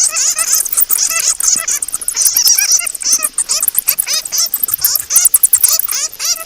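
Flying foxes (fruit bats) squeaking and chattering: many shrill, rapid, overlapping calls that bend up and down in pitch, with no pause.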